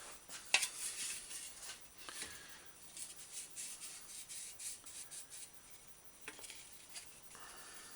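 Steel bicycle fender being handled against wooden shaping blocks: scattered light clicks, taps and scrapes, with one sharper knock about half a second in.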